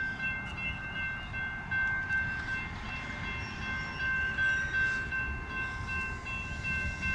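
CSX freight train running through a road crossing: a steady low rumble, with several steady high ringing tones held above it.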